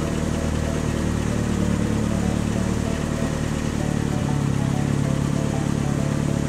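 Car engine sound effect for an animated toy police car driving a race track: a steady running hum that shifts pitch about four seconds in.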